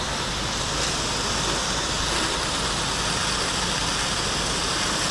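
Pressure washer running steadily while its jet tip sprays a high-pressure rinse of water, the engine and the hiss of the spray forming one even, unbroken noise.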